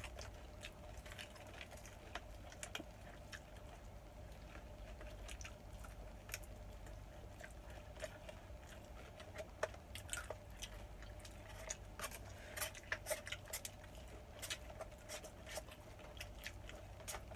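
A person chewing and eating food close to the microphone: many small mouth and food clicks, more frequent in the last few seconds, over a faint steady hum.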